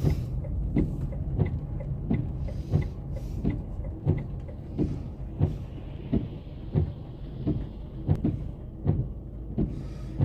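Inside a moving car: a steady low engine and road hum, with a regular tick or knock about every two-thirds of a second. A soft hiss passes by between about four and eight seconds in.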